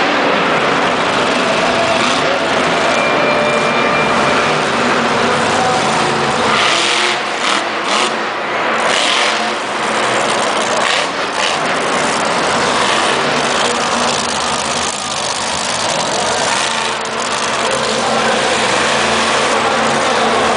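Monster truck engine running at high revs, loud and continuous, with a few short sharp sounds about seven to nine seconds in.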